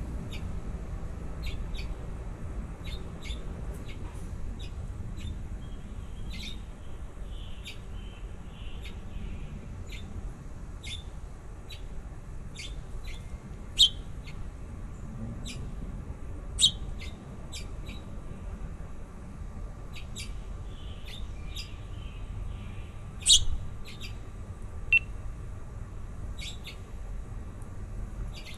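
Baby birds chirping: short, high peeps every second or so, with a few much louder chirps in the middle and later on, over a steady low rumble.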